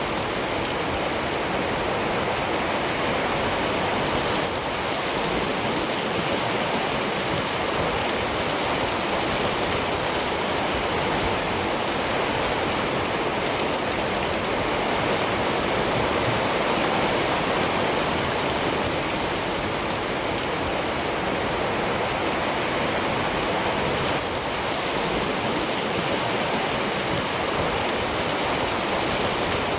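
Steady, dense rainfall: an even, unbroken hiss of rain on surfaces.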